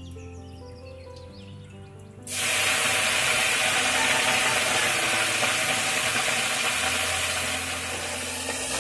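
Quiet background music, then about two seconds in a loud, steady hiss starts suddenly and keeps going, with the music still faint beneath it.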